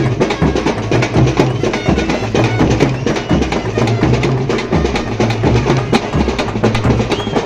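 Loud music driven by drums: a steady deep beat under a dense, busy clatter of percussion strokes.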